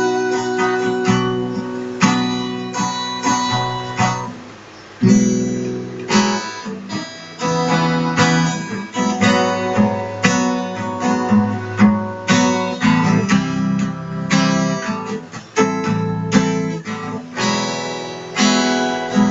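Acoustic guitar playing an instrumental passage of strummed and plucked chords, with a brief quieter stretch about four seconds in.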